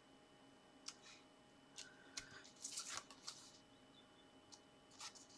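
Faint rustles and light taps of card stock being handled, a few scattered short sounds with the loudest cluster about three seconds in.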